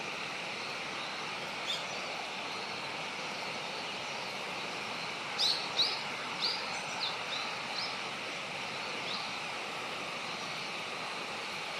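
Small songbird giving short high chirps, one alone, then a quick run of about seven, then one more, over a steady hiss of outdoor background noise.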